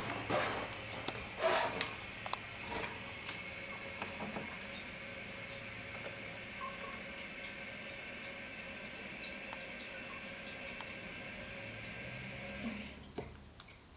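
A steady rushing hiss that cuts off abruptly about thirteen seconds in, with a few faint clicks near the start.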